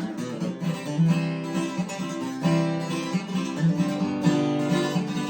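Acoustic guitar strummed in a steady country rhythm, an instrumental break between verses with no singing.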